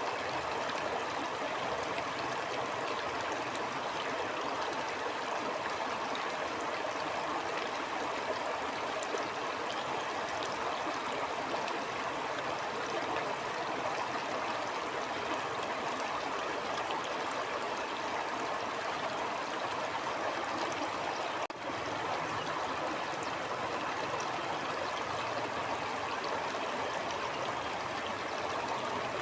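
Steady rushing of a flowing stream, with one brief dip in level about two-thirds of the way through.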